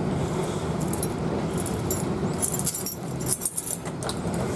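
A bunch of keys jangling and clicking as a key is fumbled into a door lock.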